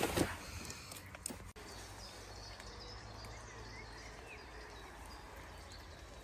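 Quiet forest ambience with a few faint bird chirps, after a brief rustle and a couple of light clicks at the start.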